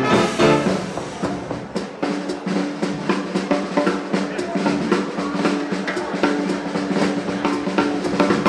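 A drum break in a live hot-jazz dance band number: the drum kit plays fast snare rolls and bass drum, with a few held low notes from the band underneath.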